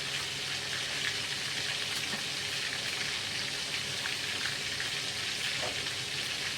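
Chopped duck pieces deep-frying in hot oil in a pan: a steady sizzle with small crackles, the meat firming up and starting to turn golden.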